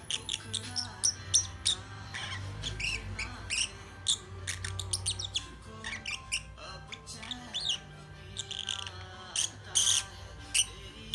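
Lovebird chirping and twittering in a fast run of short, sharp high notes and quick pitch sweeps.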